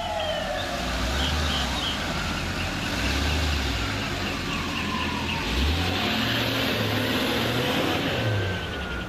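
Emergency vehicle siren wailing in slow falling sweeps, with short high chirps early on, over the low rumble of a large vehicle's engine. A broad hiss swells around the middle.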